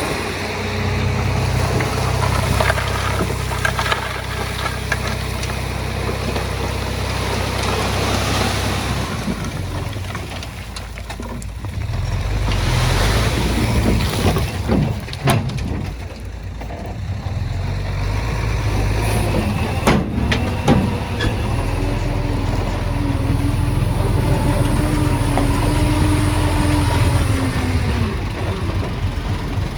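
Heavy earthmoving machinery running: a diesel engine works steadily, easing off and picking up again twice, with a few sharp metallic knocks around the middle.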